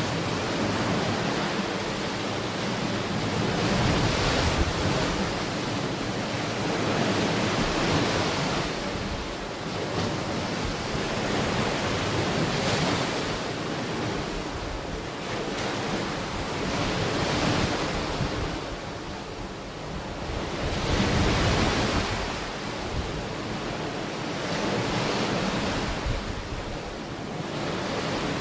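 Ocean waves breaking and washing onto the shore, swelling and easing about every four seconds.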